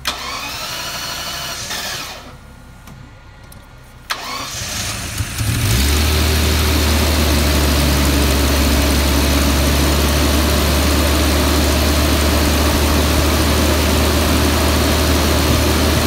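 Cold start of a 1990 Jaguar XJS's 5.3-litre V12: a short burst of starter cranking that stops, then the starter cranks again about four seconds in and the engine catches at about six seconds. It then runs at a steady, loud idle.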